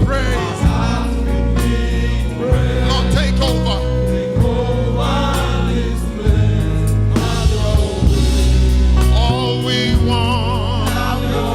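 Gospel choir singing with band accompaniment: sustained bass notes and regular drum hits under the voices.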